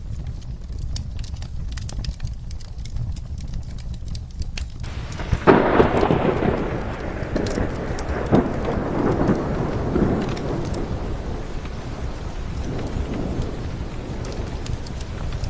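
Steady rain with a wood fire crackling, and a roll of thunder that breaks suddenly about five seconds in and rumbles away over the next several seconds.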